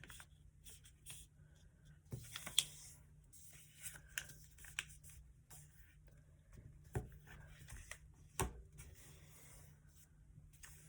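A sheet of paper being folded and creased by hand: soft rustling and rubbing with a few sharper crinkles and taps, the loudest about two and a half seconds in and again about eight and a half seconds in.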